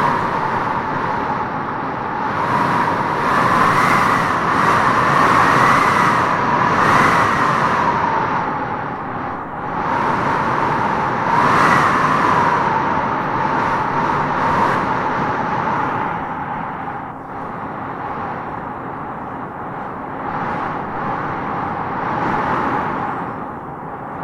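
Strong wind howling in gusts through trees: a steady rushing with a whistling howl that rises and falls in pitch, swelling strongest a few seconds in and again about halfway, then easing.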